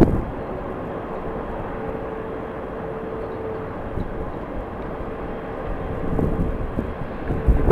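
Jet airliner engines running at a distance: a steady rushing hum with a faint, constant whine.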